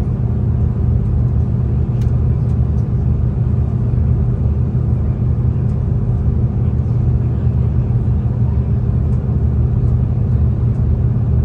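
Steady low rumble and engine hum of a V/Line diesel train running along the line, heard from inside the carriage.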